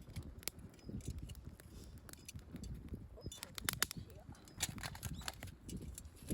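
Wood campfire crackling, with irregular sharp pops and snaps, a cluster of them about three and a half seconds in, over a low steady rumble.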